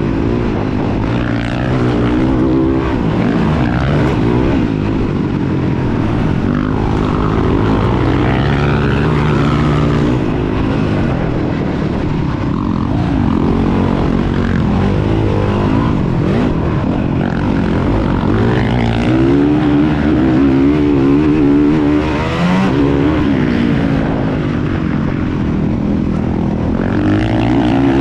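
Motocross dirt bike engines revving hard, their pitch rising and falling over and over as the riders work the throttle and shift through the gears.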